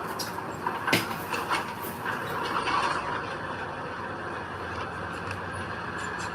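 Heavy earthmoving machinery running steadily, with a few sharp metallic clanks between one and two seconds in.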